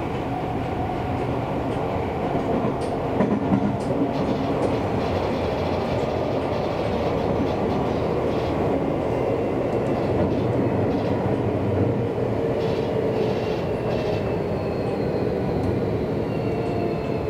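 Seibu Railway electric commuter train running, heard from on board: a steady rumble of wheels on the rails with a few sharp clicks about three to four seconds in. A faint motor whine slowly falls in pitch near the end.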